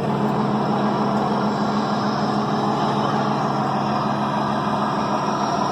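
Steady engine-like drone with a low hum, holding the same pitch throughout.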